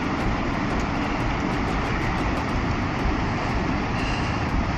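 Steady roar of storm wind and surf on a shore, with heavy low rumble from the wind buffeting the microphone.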